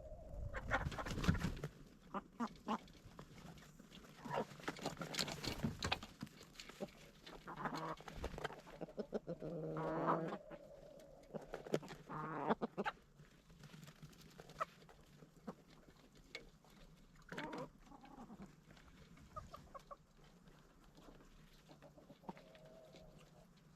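Backyard chickens clucking and calling, with many short sharp taps and clicks among them and one longer call about ten seconds in. The sounds are busiest in the first half and thin out later.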